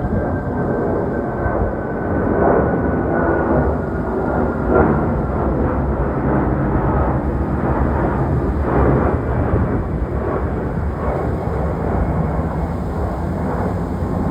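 Jet noise from a Lufthansa Airbus A340-600's four Rolls-Royce Trent 500 turbofans: a loud, steady rumble with a faint high whine that slowly falls in pitch early on.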